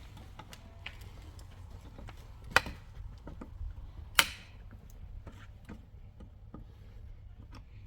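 Scattered light taps and clicks of hand tools during building work, with two louder sharp knocks about two and a half and four seconds in, over a low steady rumble.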